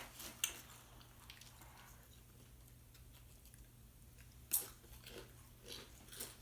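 Faint chewing of crunchy chips, with a sharp crunch about half a second in and a louder one about four and a half seconds in, followed by a few smaller crunches.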